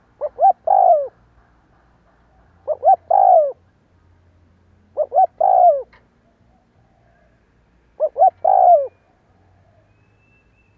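Spotted dove cooing: four calls about every two and a half seconds, each two short notes followed by a longer note that falls at the end.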